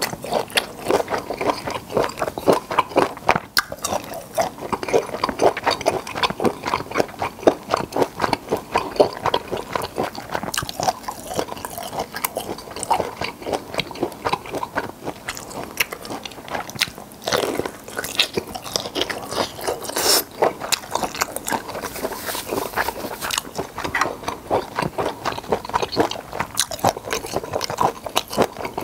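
Close-miked wet chewing and lip smacking of grilled black tiger prawn meat, a dense run of quick mouth clicks throughout.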